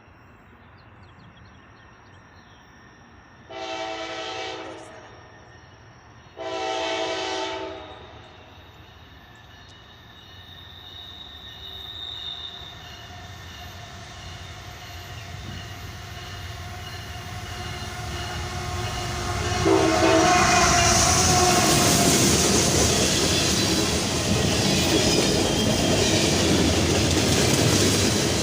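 Locomotive air horn sounding two long blasts, then the train approaching and passing close by: a rumble that grows steadily and is loud in the last several seconds, with steel wheels on the rails and a faint high squeal near the end.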